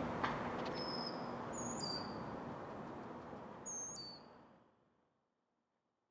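Small birds giving a few short, high chirps over steady outdoor background noise; the sound fades out about four and a half seconds in, leaving silence.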